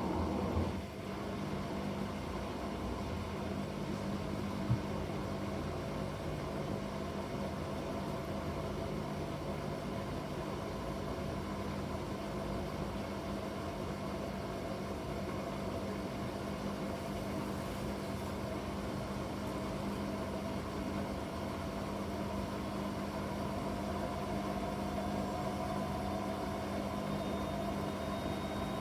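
Bosch front-loading washing machine running its Quick 15 cycle: a steady motor hum with a higher whine that rises in pitch over the last few seconds as the drum speeds up. A single brief knock about five seconds in.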